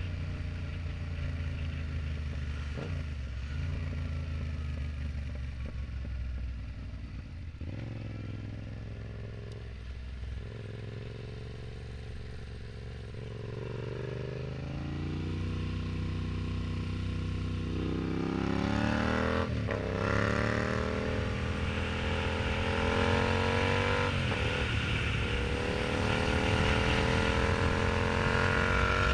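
Yamaha MT-07's parallel-twin engine through an aftermarket exhaust while riding: running at low revs with the revs falling away a few times, then from about halfway through accelerating, the pitch climbing steadily and dropping sharply twice at upshifts before climbing again, getting louder toward the end.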